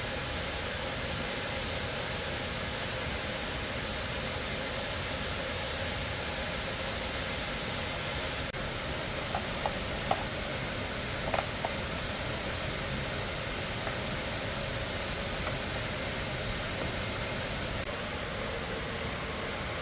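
Steady machine hiss, with a few light clicks about halfway through.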